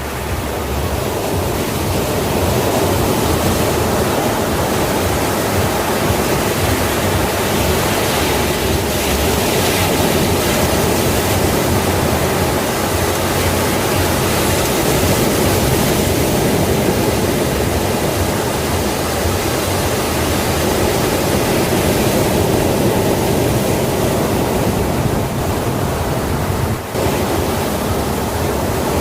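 Sea waves washing on a shore: a continuous, steady rush of surf with slow swells, dipping briefly near the end.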